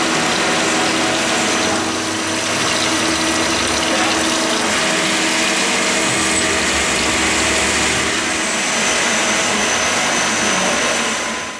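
Star RNC16 CNC sliding head lathe running: a steady mechanical hum of motors and pumps, with a constant low tone and a faint high whine.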